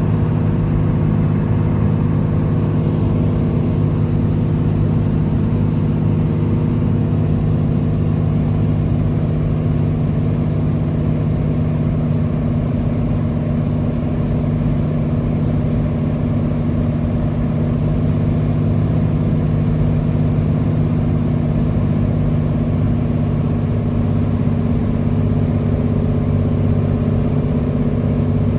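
Cessna 206H Stationair's six-cylinder Lycoming piston engine and propeller droning steadily at a constant pitch.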